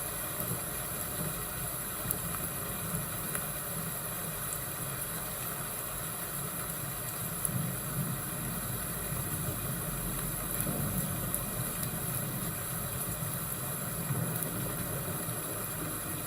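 Fireplace and thunderstorm ambience: a steady low rumble under a hiss, with small scattered crackles.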